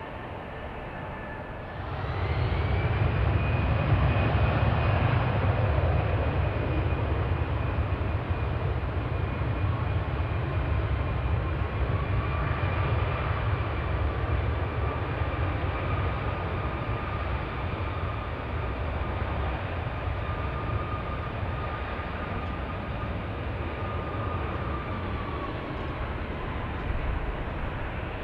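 Jet aircraft engines spooling up with a rising whine about two seconds in, then a loud, steady low rumble with high whining tones that runs on through the rest.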